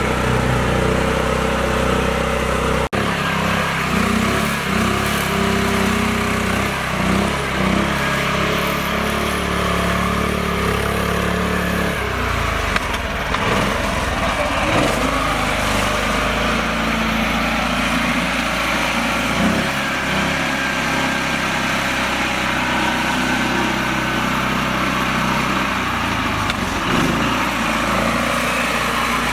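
Small tractor's engine running steadily, with its pitch shifting abruptly a few times.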